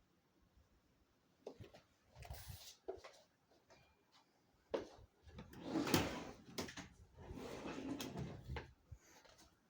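Irregular knocks, clacks and scuffing of things being handled, busiest and loudest about six seconds in.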